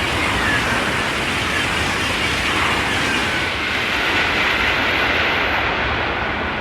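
High-speed train running through at speed: a loud, steady rush of wheels on rail and air, beginning to fade near the end.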